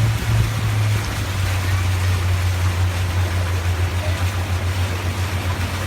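Boat engine running with a steady low throb, its pitch dropping slightly about a second in, over a hiss of water and air.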